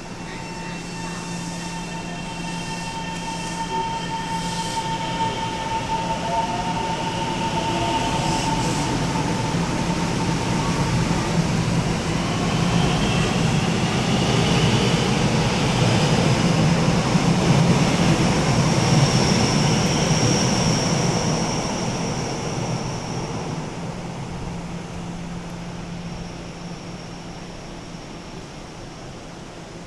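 Taiwan Railway EMU700 electric multiple unit pulling out of the station: steady and rising motor tones over a low hum, the train noise building for about sixteen seconds and then fading as it moves away. A high thin squeal comes in about two-thirds of the way through.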